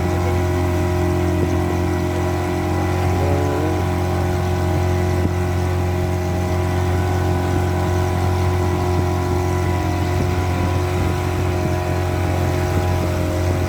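Speedboat engine running at a steady speed, a constant drone under an even hiss of rushing water and wind.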